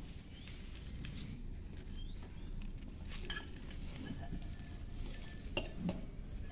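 Outdoor ambience with faint, short bird chirps over a low steady background, and scattered light clicks and rustles, two sharper ones near the end.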